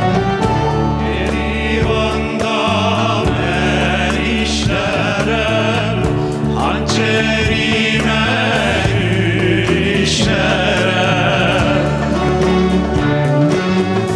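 Azerbaijani folk song: male voices singing together over a band of strings, with a steady instrumental backing; the singing runs from about a second in until near the end.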